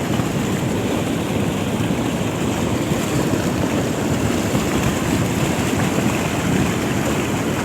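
Steady rushing, rumbling noise of wind buffeting the microphone, holding at an even level throughout.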